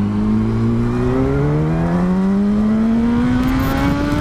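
Yamaha R1 sport bike's inline-four engine pulling steadily under acceleration, its pitch rising slowly and evenly, with wind and road rush behind it.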